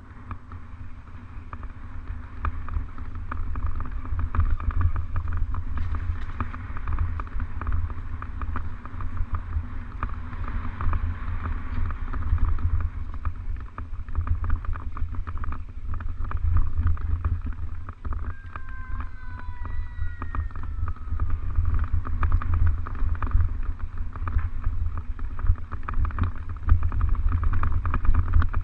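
Wind buffeting the microphone with the steady rattle of a mountain bike rolling over a trail. About two-thirds of the way through comes a brief high squeal that falls in pitch.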